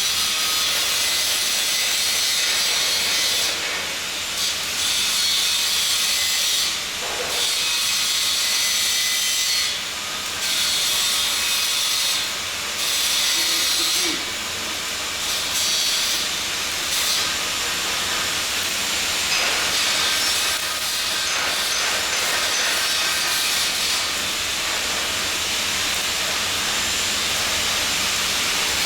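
Welding work giving a steady, loud hiss and sizzle. The high part of the hiss briefly drops away several times in the first half.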